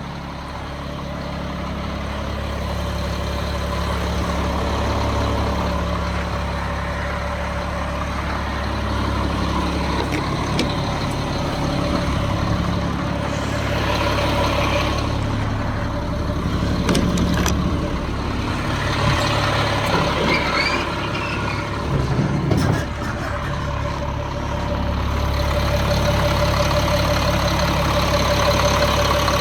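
Caterpillar C7 diesel engine of a 2006 Peterbilt 335 idling steadily, with a few short clicks and knocks around the middle.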